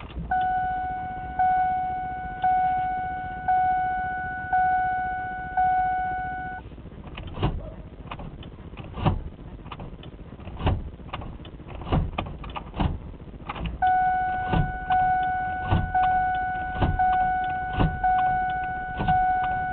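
Ford Windstar's warning chime sounding about once a second, six times, then a run of irregular sharp clicks, then the chime again with more clicks over it. No engine cranks or catches: the van will not start.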